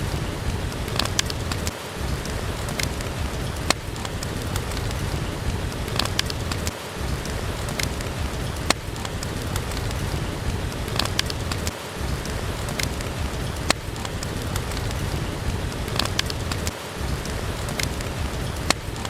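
Steady heavy rain hiss with scattered sharp pops and clicks from a crackling wood fire. The low rumble dips briefly about every five seconds.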